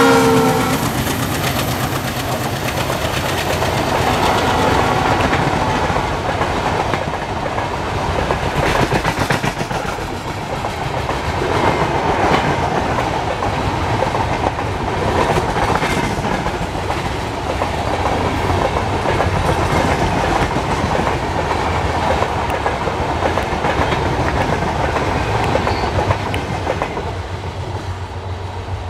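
Passenger train hauled by an Alco diesel locomotive passing close at speed. The locomotive's multi-tone horn cuts off just as it goes by, then the coaches' wheels clatter over the rail joints in a steady loud rush that eases slightly near the end.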